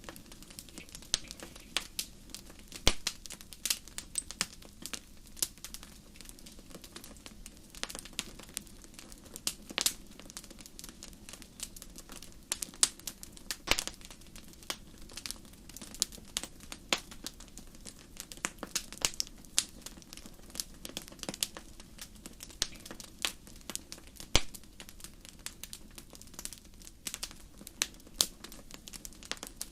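Wood fire burning in a fireplace, crackling with irregular sharp pops, a few much louder than the rest, over a soft steady low rush of the flames.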